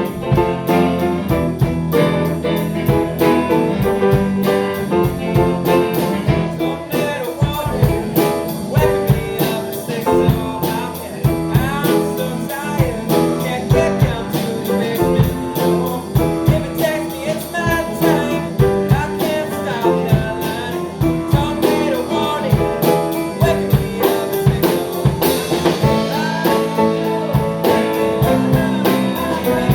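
A band playing a song at a quick tempo: guitars over a drum kit keeping a steady beat.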